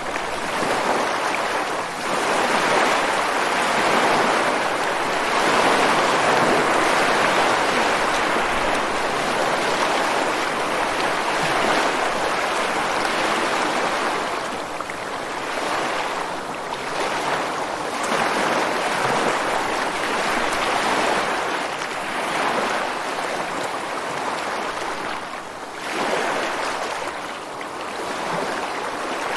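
Ocean surf washing onto a rocky shore: a continuous rushing of water that swells and eases every several seconds, with no sharp crashes.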